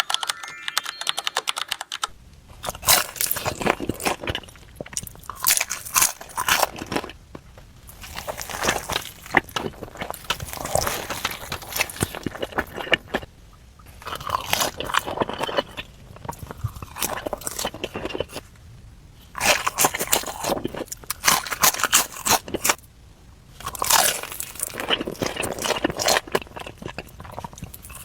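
Close-up eating sounds: crunchy bites and chewing, in bouts of a few seconds separated by brief pauses. A short buzzy pitched sound opens the first two seconds.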